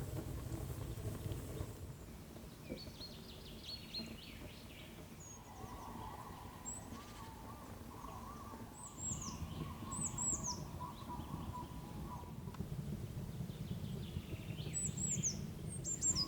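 Songbirds singing: several phrases of short, high, downward-sweeping chirps come and go, and a lower warbling song runs through the middle, over a steady low background rumble.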